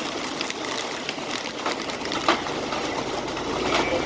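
Steady rain: a dense, even hiss with many single drops ticking through it, one sharper tick a little after halfway.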